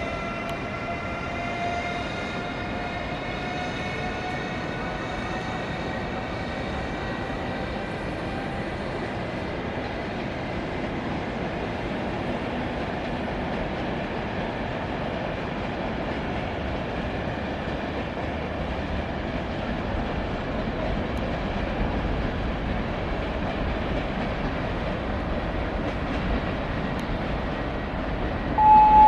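Electric passenger train moving through the station, its motors whining in several tones that rise slowly in pitch, then fading into a steady rolling rumble. A loud single chime-like tone sounds just before the end.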